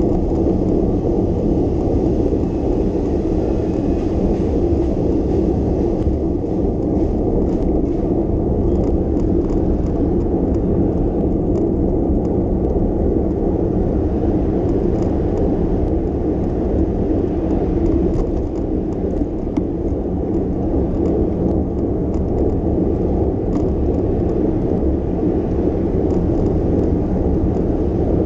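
Steady low rumble of wind buffeting the microphone of a camera riding along on a moving bicycle, mixed with road noise.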